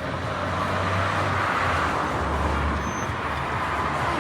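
A motor vehicle passing on the road: a rush of tyre and engine noise with a low rumble, swelling and then fading away near the end.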